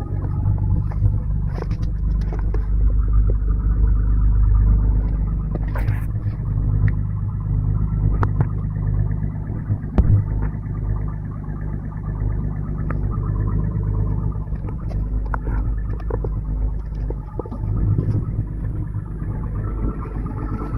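BMW M535i E28's M30B35 straight-six engine running steadily with a deep, even note. A few sharp clicks sit over it, the loudest about ten seconds in.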